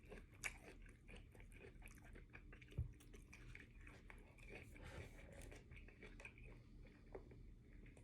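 A person chewing a mouthful of a teriyaki rice bowl, close to the microphone: faint, wet mouth clicks and small crunches. There is one short low thump a little under three seconds in.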